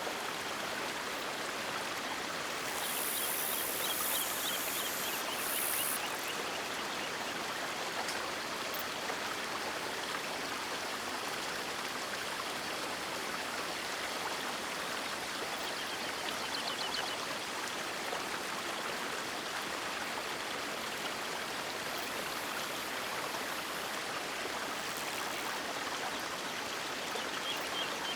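River water flowing steadily, a continuous rushing and babbling hiss, swelling slightly a few seconds in.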